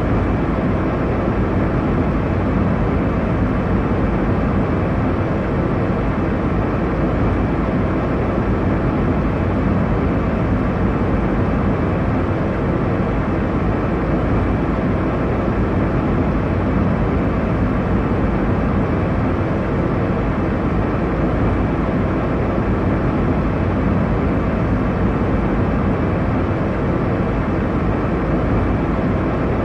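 Steady airliner cabin noise in flight: a continuous, even rumble and hiss of engines and airflow, heaviest in the low range, with no change throughout.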